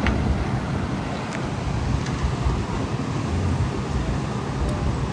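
Wind buffeting the microphone over a steady outdoor rumble, with a few faint ticks.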